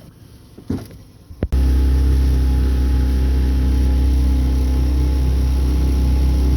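A Mercury 9.9 hp outboard motor running steadily under way, cutting in abruptly and loudly about a second and a half in, with a strong low hum.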